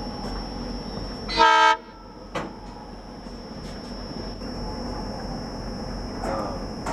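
Diesel locomotive horn giving one short toot about a second and a half in, over the steady low rumble of an idling WDM 3A diesel locomotive.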